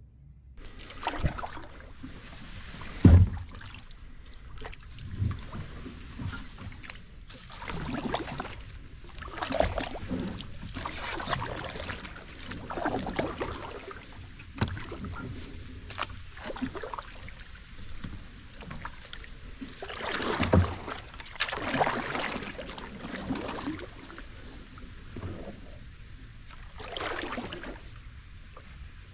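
Kayak being paddled: irregular paddle strokes swishing and splashing in the water, with a sharp knock about three seconds in and another around twenty seconds in.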